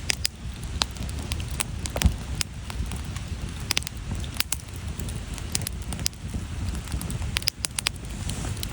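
Firewood burning: irregular crackles and sharp pops of various sizes over a steady low rumble of the flames, with one louder pop about two seconds in.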